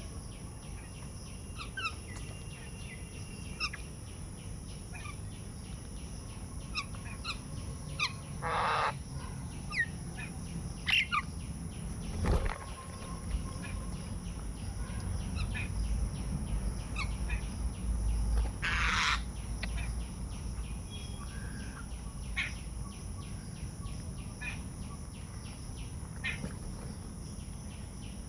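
Assorted birds chirping with short scattered calls. Two longer, harsh calls come about 8 and 19 seconds in, and a single sharp knock comes about 12 seconds in.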